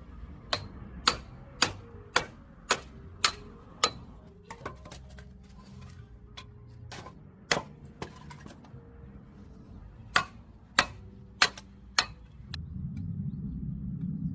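A series of sharp strikes, each with a short ring. They come about two a second, six or seven in a row, then singly and in a group of four after a pause. A low rumble rises near the end.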